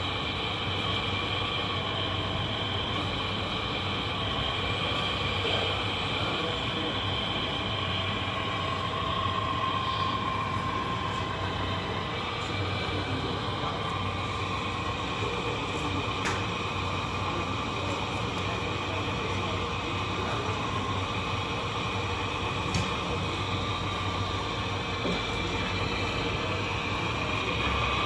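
Electric motors and gearboxes of radio-controlled construction trucks running, giving a steady layered whine with a few light clicks.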